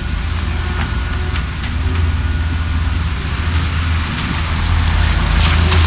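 Skid steer loader's engine running steadily with a low, even rumble and scattered light clicks, with a short burst of hiss near the end.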